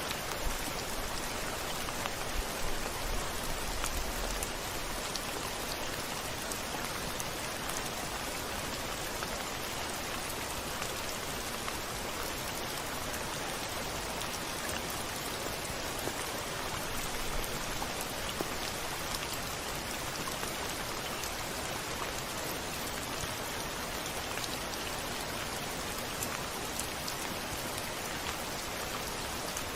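Steady rain falling: a continuous even hiss dotted with fine drop ticks. A faint low rumble sits under it about three to four seconds in.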